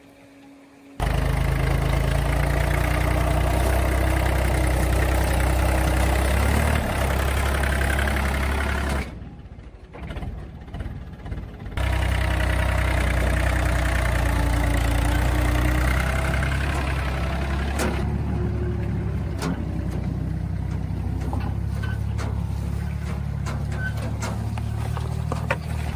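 A motor running steadily at one speed. It switches on abruptly about a second in, stops at about nine seconds, starts again near twelve seconds, and runs on more quietly with scattered clicks and knocks from about sixteen seconds.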